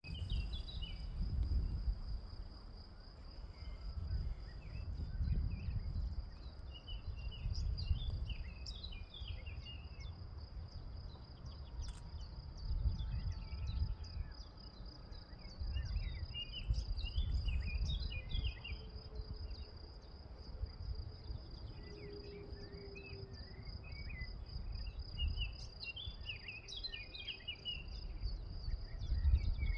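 Outdoor countryside ambience: insects such as crickets trill steadily at a high pitch while small birds chirp in scattered bursts. Gusts of wind buffet the microphone with a low rumble that comes and goes and is the loudest sound.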